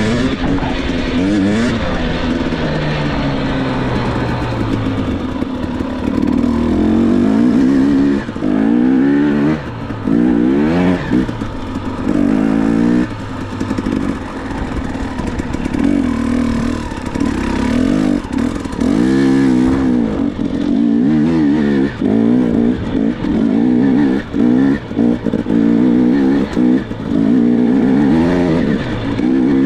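Dirt bike engine revving up and dropping back again and again as it is ridden, with short dips as the throttle is closed.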